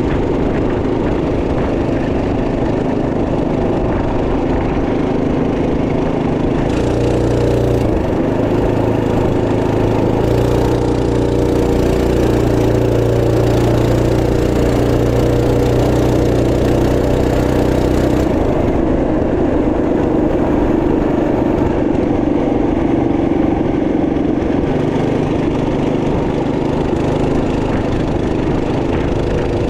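Single-cylinder 212cc engine of a Trail Master MB200 minibike running steadily. From about seven seconds in it pulls harder and louder for roughly ten seconds, then eases back to a lighter steady note.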